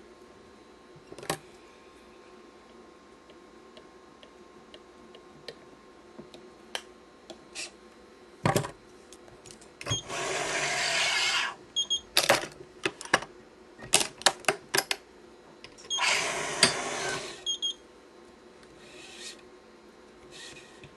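Badminton racket stringing: scattered small clicks and ticks from the clamps and string handling, and twice a rasping hiss of about a second and a half as the cross string is drawn through the strings and grommets.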